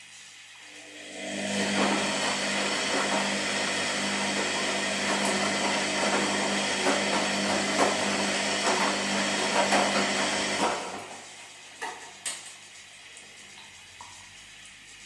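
Washing machine drum turning during a wash cycle: a steady motor hum with a loud churning rattle. It starts about a second in, runs for about ten seconds, then stops, leaving a low hum and a couple of soft clicks.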